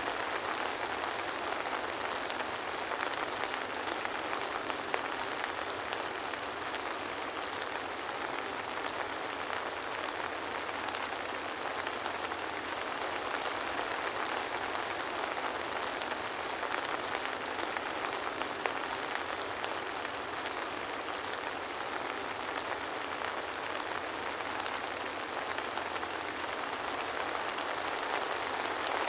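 Steady soft rain falling, an even hiss with scattered faint drop ticks and no thunder.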